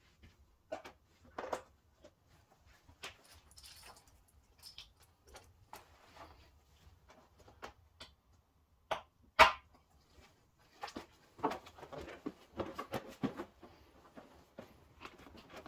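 Irregular clicks, knocks and rustling of hand work, with one sharp knock about nine seconds in and a busier run of knocks near the end.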